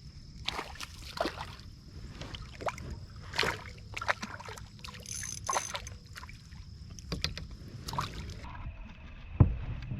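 Knocks, taps and small splashes of a fishing kayak and its gear being handled on the water, with one loud thump near the end. A steady high-pitched insect buzz runs behind and drops lower near the end.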